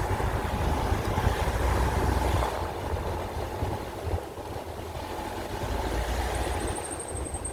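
Low, steady rumble of a vehicle on the move, with a brief high trill near the end.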